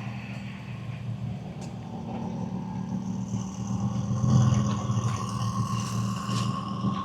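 Car engine running with a steady low rumble, swelling briefly about four seconds in.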